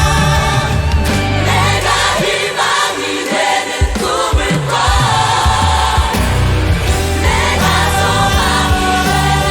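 A choir singing in many voices over instrumental backing. The low accompaniment drops out for about a second and a half, a little over two seconds in, then comes back.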